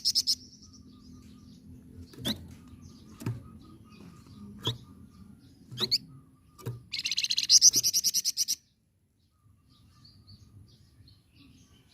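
A flamboyan bird singing. A fast, high rattling trill ends just after the start. Sharp single chip notes follow about once a second, then a second fast rattling trill comes about seven seconds in and stops abruptly.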